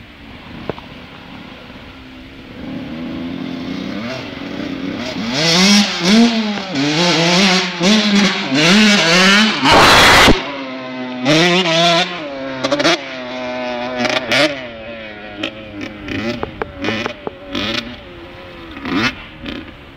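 Motocross bike engines revving up and down repeatedly, pitch climbing and dropping with each rev. They grow loud in the middle, with a brief rush of noise about ten seconds in, then fall back to shorter, fainter revs.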